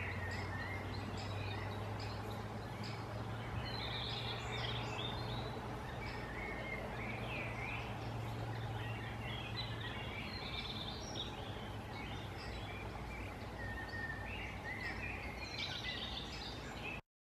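Birds chirping and calling on and off in the open air, with a steady low hum under them for the first ten seconds or so; the sound cuts off suddenly near the end.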